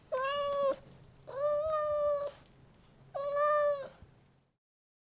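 A cat meowing three times, each meow a drawn-out call held at a steady pitch, the middle one the longest.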